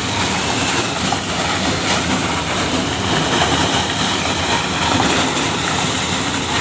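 Motorised corn thresher running loudly and steadily.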